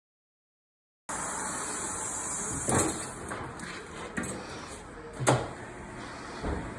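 Silence for about a second, then steady background hiss with several separate knocks and clunks, the loudest a little past the middle.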